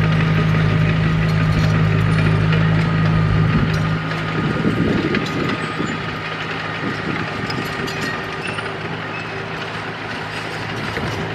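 Komatsu D31P bulldozer's diesel engine running. It holds a steady low hum for about four seconds, then turns rougher and slightly quieter.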